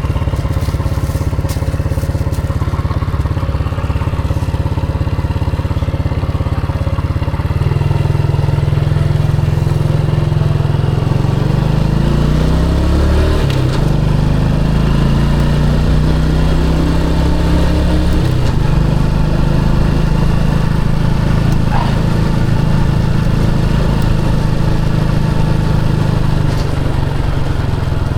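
Motorcycle engine running under way. Its note steps up about eight seconds in, slides up and down in pitch a few seconds later, and settles to a steady drone after a further change around eighteen seconds.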